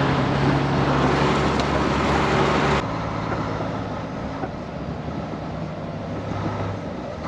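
ERF lorry's Cummins M11 diesel engine running steadily under way, heard from inside the cab with road noise. About three seconds in the sound suddenly becomes quieter and duller.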